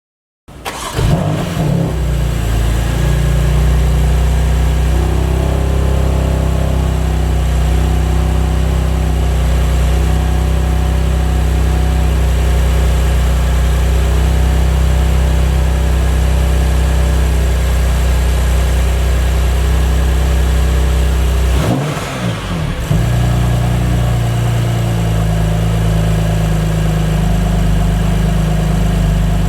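BMW M2 Competition's 3.0-litre twin-turbo straight-six starting with a brief flare about half a second in, then idling steadily. About three quarters of the way through the note briefly dips and swoops, and it swoops again near the end.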